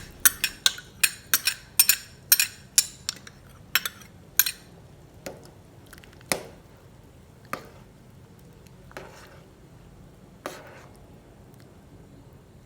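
A metal spoon clinking against a cooking pot while egg is stirred into soup. Quick clinks about three a second for the first few seconds, then single knocks a second or more apart that stop near the end.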